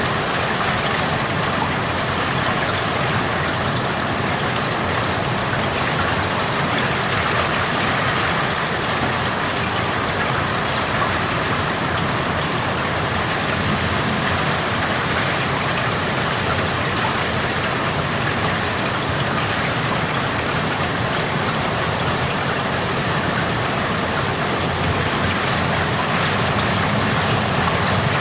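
Steady rain heard through an open window: an even hiss with fine scattered ticks of drops.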